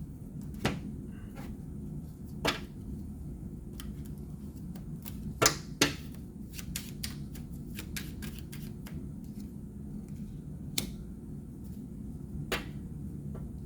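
Tarot cards being handled and laid down: scattered light clicks and taps, with two sharper snaps close together about five and a half seconds in, over a steady low hum.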